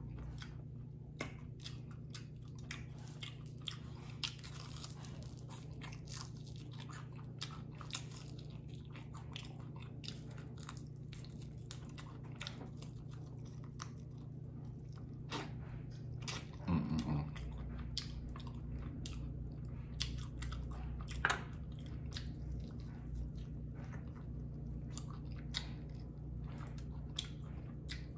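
Close-up chewing and biting into crunchy fried chicken wings: a steady run of sharp crunches and chewing, with a short hum of the voice about two-thirds of the way through.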